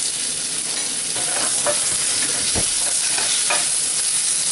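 Diced potatoes sizzling in hot olive oil as they are stirred, with scattered scrapes and taps of the stirring utensil against the pan over the steady hiss of frying.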